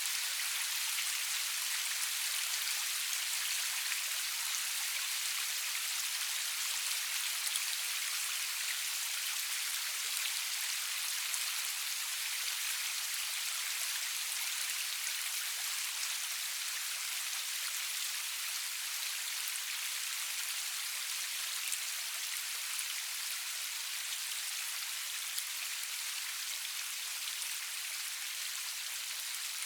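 Steady rain falling, an even hiss with no thunder, and now and then a single louder tick of a drop.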